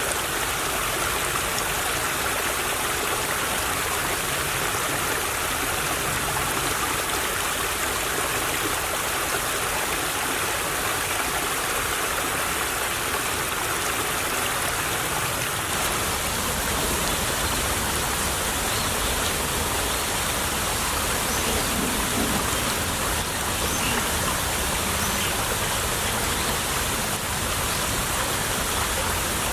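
Small stream of water flowing and babbling steadily over stones.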